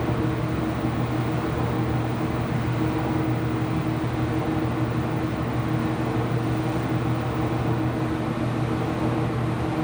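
Laundry machines running with a steady mechanical hum and a constant low tone.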